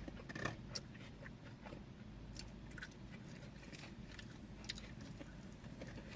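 Faint chewing and eating sounds: scattered small mouth clicks and smacks as people bite and chew their food.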